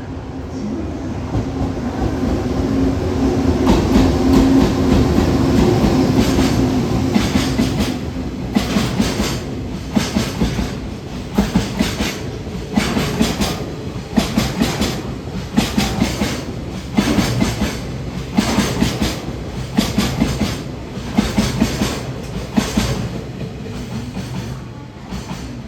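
An oil tank freight train passing, hauled by an EH200 electric locomotive. The locomotive's steady hum swells in the first few seconds, then the tank wagons' wheels clatter over the rail joints in a regular rhythm of paired clicks.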